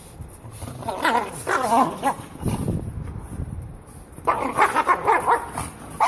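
A dog yipping and whining in two bouts, one about a second in and another past four seconds, with a lower rumbling sound between them.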